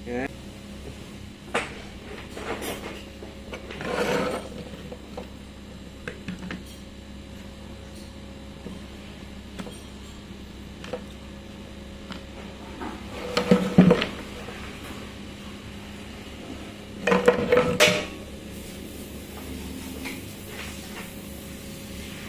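Irregular clinks and clatters of hard parts and tools being handled, with the loudest clusters about 13 and 17 seconds in, over a low steady hum.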